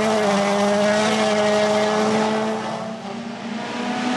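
Rally car engine held at high, steady revs under full throttle, with tyre and gravel noise. It fades somewhat about three seconds in and comes back up near the end with a slight rise in pitch.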